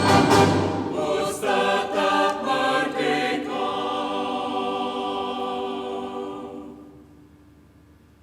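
Orchestra and choir sounding several loud chords, then holding a final chord that dies away to near quiet about seven seconds in.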